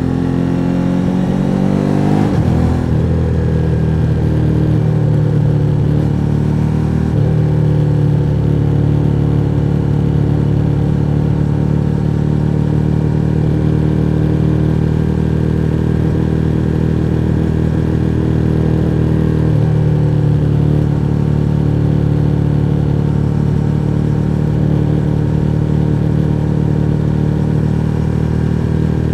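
Suzuki SV1000N's 90-degree V-twin engine, heard from the bike while riding. It rises in revs over the first two seconds or so, changes up about two and a half seconds in, then holds a steady cruise with slight changes in engine speed around seven and twenty seconds in.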